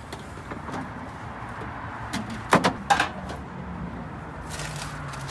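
Two sharp knocks close together, about two and a half and three seconds in, over a steady low hum.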